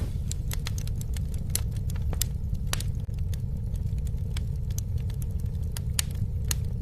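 Campfire burning: irregular sharp crackles and pops over a steady low rumble of flame.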